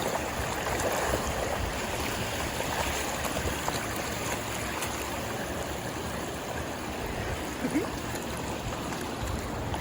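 Steady rush of flowing water, like a stream or run-off through flooded ground.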